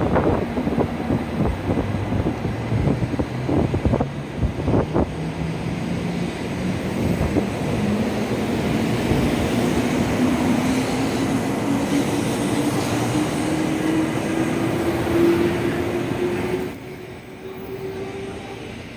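Doctor Yellow 923-series Shinkansen inspection train accelerating: a rumble with clacks and knocks of the wheels over rail joints and points at first, then the traction motors' whine rising steadily in pitch. The sound drops sharply near the end.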